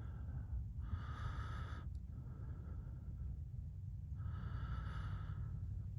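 Slow, heavy breathing close to the microphone: two strong breathy exhales, about a second and about four seconds in, with softer breaths between, over a steady low rumble.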